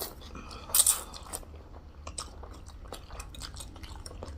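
Close-up eating sounds: one loud crunchy bite a little under a second in, then steady chewing with small wet clicks.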